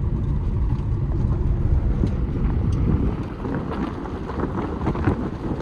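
A car driving along: steady low rumble of engine and road noise, with some wind noise.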